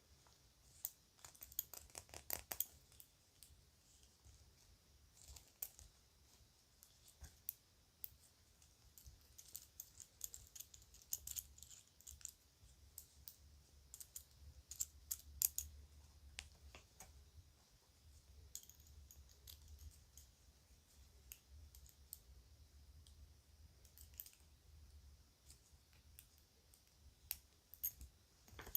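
Faint, irregular light clicks and clinks of children's jewelry pieces being handled, some in quick little clusters.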